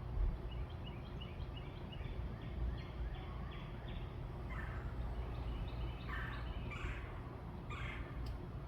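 Birds calling: a quick run of short, high repeated notes, then several louder, harsh calls spaced about a second apart, over a steady low rumble.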